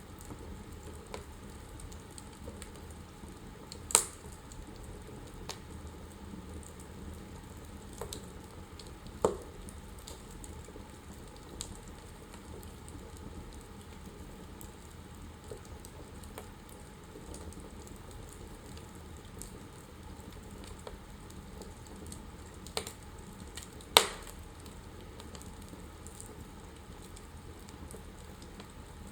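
Wood fire in a fireplace crackling steadily, with scattered small clicks and four sharp pops, the loudest near the end.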